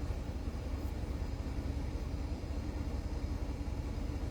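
Steady low rumble of a car running, with no distinct events.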